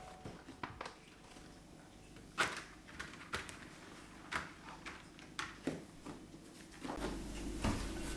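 Scattered light knocks and clicks, about seven or eight of them, of objects being handled, with a faint steady hum coming in near the end.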